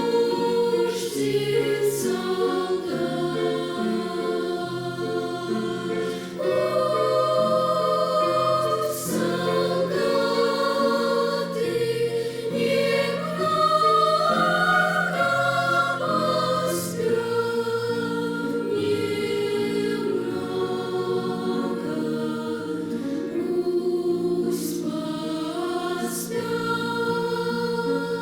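A children's choir singing a slow song, with long held notes that shift in pitch.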